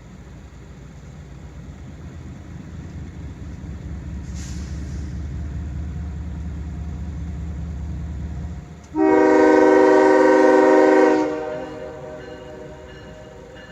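GE diesel-electric freight locomotives running with a low rumble that builds for about nine seconds, with a short hiss about four seconds in. Then a Nathan K5HL five-chime air horn is blown once for about two seconds, the loudest sound, and the rumble drops away after it.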